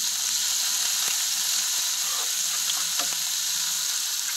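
Chopped tomatoes, onions and chilies frying in oil in a metal frying pan, a steady sizzle, with a few light clicks of a metal spoon stirring against the pan.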